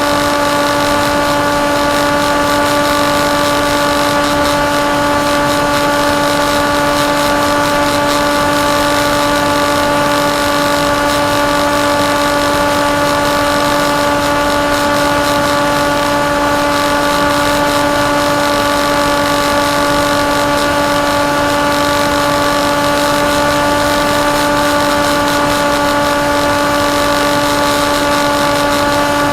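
Electric motor and propeller of a KT Wing flying wing running at steady throttle: an unchanging whine over a constant hiss of rushing air.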